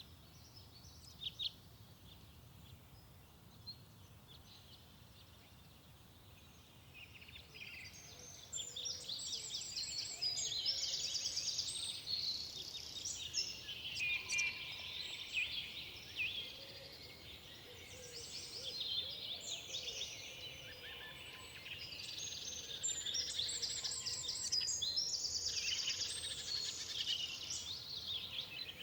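Several forest songbirds singing: a few scattered chirps at first, then dense overlapping song from about eight seconds in. The song eases briefly past the middle and builds again.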